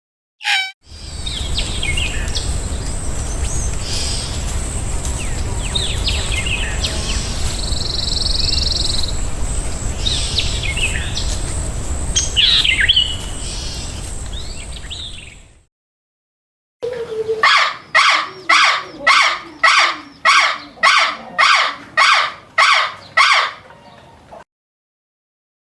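Small birds chirping now and then over a steady low rumble and a thin, constant high tone; after a brief silence about halfway through, a bird gives a loud call over and over, about twice a second, for several seconds.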